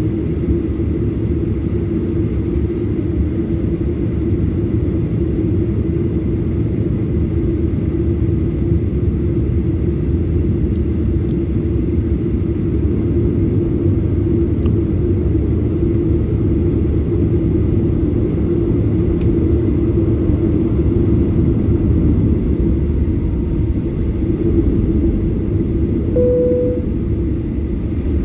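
Boeing 737-800 cabin noise from a rear window seat: the CFM56-7B engines and airflow make a steady, loud rumble with a constant low hum. A brief single tone sounds near the end.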